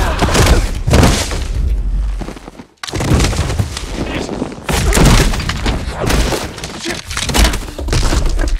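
Loud run of crashing impacts, thuds and breaking, splintering sounds over a low rumble. The sound drops out almost completely for a moment about three seconds in, then the crashes resume.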